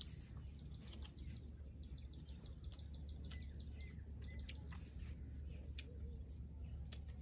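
Small birds chirping in quick runs of short, high notes over a steady low rumble, with a few sharp clicks.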